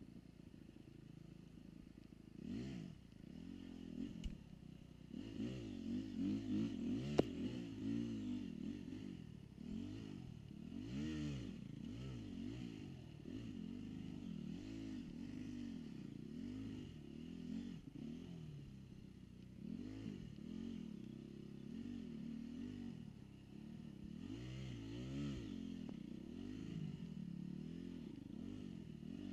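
Dirt bike engine revving up and down over and over, the pitch climbing and dropping about once a second as the throttle opens and closes. A single sharp knock comes about seven seconds in.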